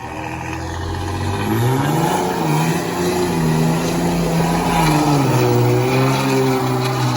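A car engine revving: the pitch climbs about a second and a half in, holds high for a few seconds, then drops back to a steady lower rev. The exhaust is loud.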